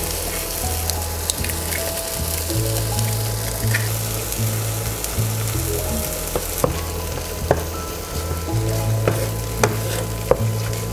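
Eggs, chopped tomatoes and peppers sizzling as they fry in a non-stick pan. From about six seconds in, a wooden spatula stirs them, with sharp knocks and scrapes against the pan. Background music plays along.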